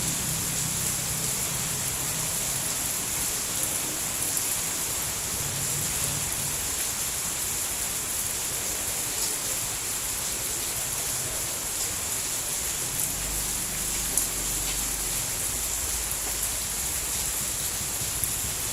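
Steady rain falling as an even, unbroken hiss, with a few faint drip ticks and a soft low rumble in places.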